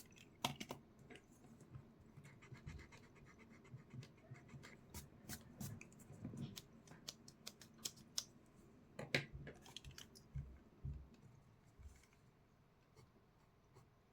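Pencil scratching on paper in a run of quick, short, irregular strokes, with a few sharper taps.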